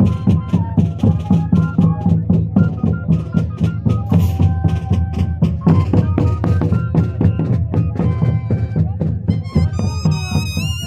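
Moseñada band music: moseño flutes play a droning melody over a steady drum beat of about three strikes a second. A high, bending tone comes in near the end.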